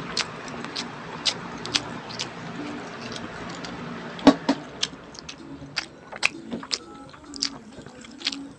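Close-miked chewing and lip-smacking of a mouthful of pizza: a string of sharp, wet mouth clicks, with one louder knock about four seconds in.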